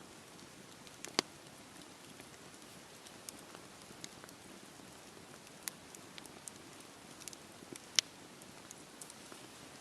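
Campfire crackling in steady rain: an even hiss of rain with scattered sharp pops and snaps from the fire, two of them much louder, about a second in and near the end.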